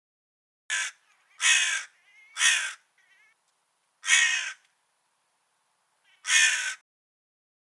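Crow cawing: five harsh caws, three in quick succession in the first few seconds, then two more spaced about two seconds apart, with fainter calls between.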